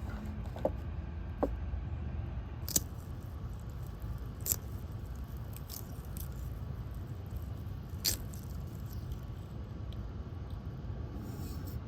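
Scattered clicks and knocks of camp gear being handled, over a steady low rumble.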